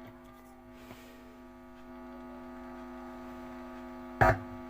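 Steady electrical hum with a stack of overtones from a home-built 3773 amplifier's speaker, growing slightly louder as its master volume is turned up. A sharp click sounds about four seconds in.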